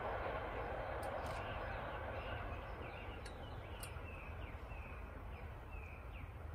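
E3 series Shinkansen train running away along the track, its rumble fading steadily as it passes. From a few seconds in, short repeated chirps come through above it.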